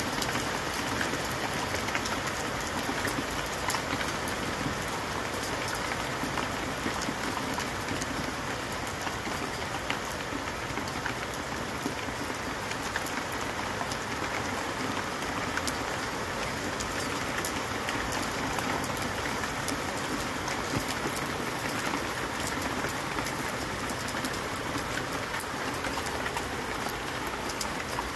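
Heavy rain falling steadily: an even rush of rain with many fine drop ticks throughout.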